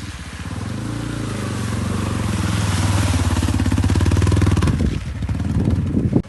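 Dirt bike engine pulling hard up a steep rocky climb, getting louder as the bike comes closer, then easing off about five seconds in.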